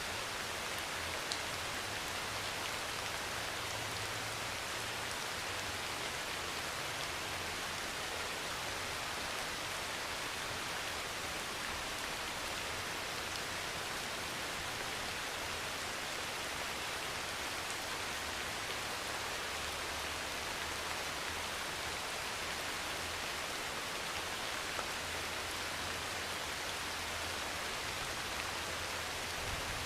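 Steady heavy rain falling on a metal roof: an even hiss, with a couple of faint sharp ticks standing out.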